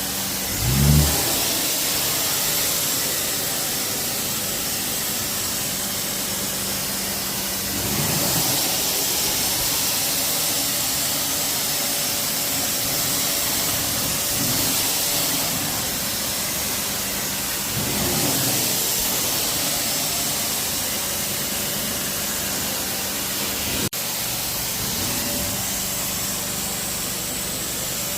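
Hot-water carpet extraction machine running steadily with a constant hum and hiss. Its sound swells every several seconds as the cleaning wand is worked over the carpet.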